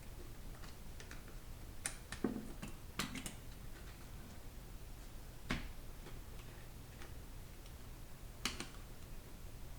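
Light clicks and taps of small metal transmission parts being handled and fitted together by hand, coming at uneven intervals.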